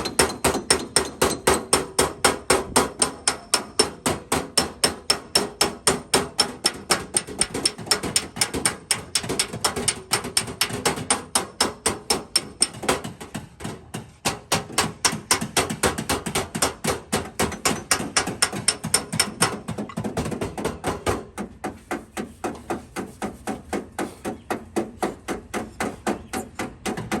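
Small hammer tapping rapidly and steadily on a car's sheet-metal body panel during paintless dent repair, several light strikes a second. The taps grow softer about halfway through and again in the last few seconds.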